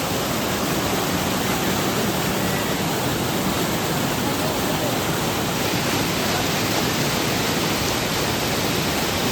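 A small waterfall pouring down close to the microphone: a steady, even rushing of water.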